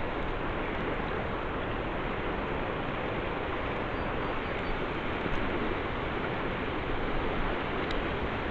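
Steady rushing of river water, an even noise with no breaks, and a few faint ticks near the end.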